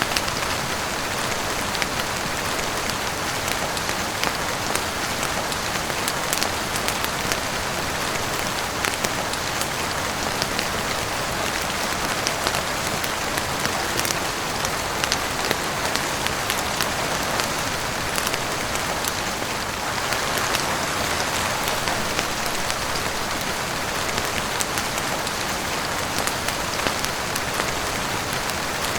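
Steady heavy rain, with many sharp little ticks of drops scattered all through it.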